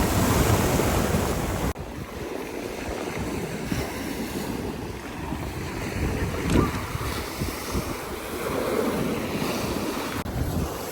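Surf from a rough sea washing onto the shore, with wind buffeting the microphone. The level drops suddenly about two seconds in, then the wash of the waves carries on.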